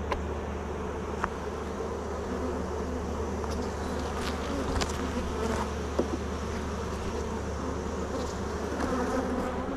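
Honeybees buzzing in a steady, dense hum around an opened hive, with a few sharp clicks.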